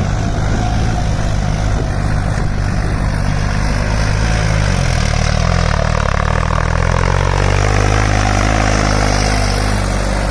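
Farmtrac 60 PowerMax tractor's diesel engine, fitted with a turbocharger and turned-up fuel pump, running steadily while driving in third gear. The engine note shifts in pitch around the middle and then steadies.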